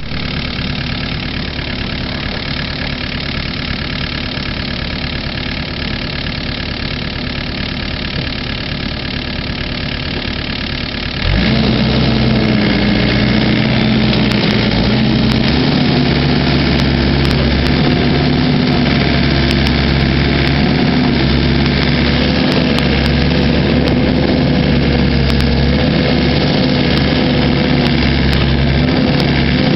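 Mini excavator engine running steadily, then stepping up louder about eleven seconds in as it comes under more throttle or load, and running on at the higher level with a slightly wavering pitch.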